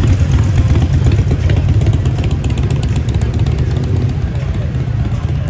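Motorcycle engine running with a steady low throb, easing off slightly near the end.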